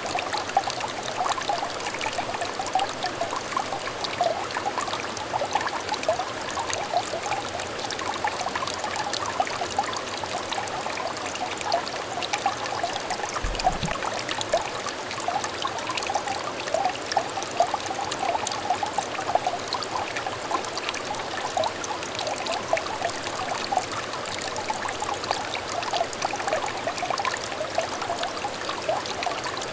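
A small clear brook trickling steadily, with many small bubbling plinks over its running murmur. A brief low thump comes about halfway through.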